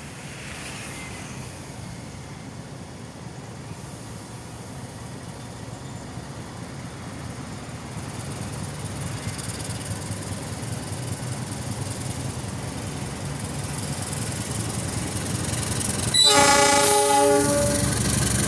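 Diesel locomotive of the Argo Wilis passenger train approaching, its engine rumble growing steadily louder, then sounding its horn once, a loud blast of about a second and a half near the end.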